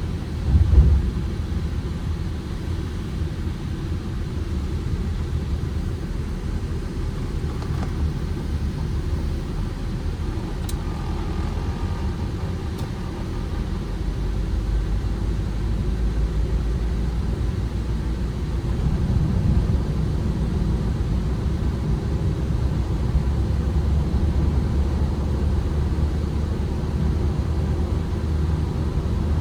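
Ford Transit Connect van's petrol engine and tyre noise heard from inside the cab while driving, a steady low rumble. There is a thump right at the start, and it grows a little louder from about halfway through.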